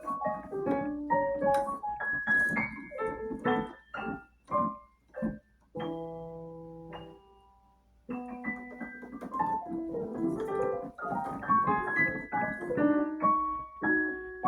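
Piano playing a quick run of separate notes; about six seconds in a chord is held and dies away into a brief pause, then the playing picks up again.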